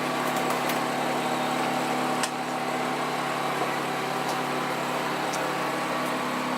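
Steady mechanical hum from a food truck's onboard equipment, with a few light clicks and knocks of kitchen work, the sharpest about two seconds in.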